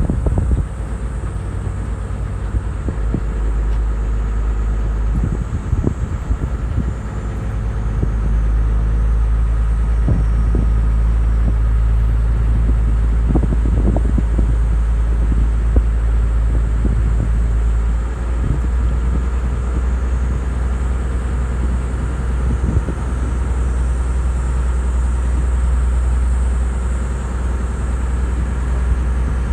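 Sightseeing boat's engine running with a steady low rumble, with wind buffeting the microphone in scattered thumps.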